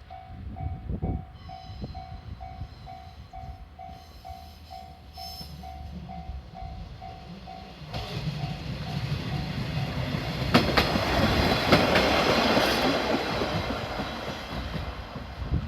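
A level-crossing warning bell clangs about twice a second while a diesel railcar approaches. The bell fades under the train as it passes over the crossing. The passing noise swells to a peak about two-thirds of the way through, with sharp clicks of wheels over rail joints, then begins to ease.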